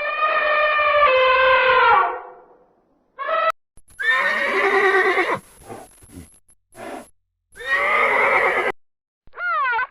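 Horse neighing: several loud whinnies in a row, separated by short gaps. A short arched call comes in just before the end.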